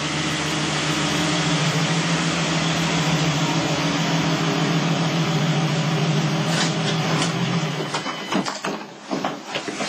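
Car engine running steadily as the car pulls in, then cut off about eight seconds in. A few sharp clicks and knocks come near the end.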